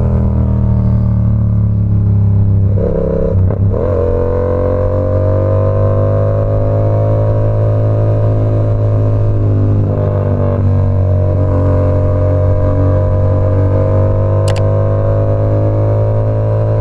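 Yamaha R7's 689 cc parallel-twin engine running through an SC Project CR-T exhaust while being ridden. Its note dips at a gear change about three seconds in and again about ten seconds in, then climbs slowly each time. A brief sharp tick comes near the end.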